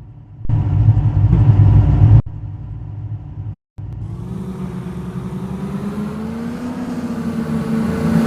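Mahindra SUV engine in short edited clips: a loud rev, then after a brief cut a steady acceleration, the engine note slowly rising in pitch and growing louder toward the end.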